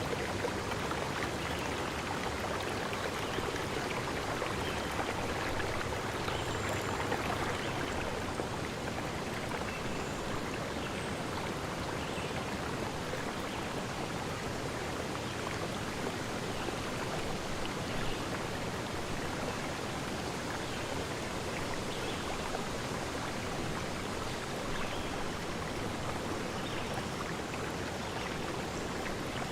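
Forest stream, water rushing steadily.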